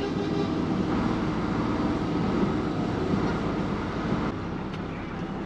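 ERF lorry's Cummins M11 diesel engine running steadily under way in convoy, with a dense low drone that eases slightly about four seconds in.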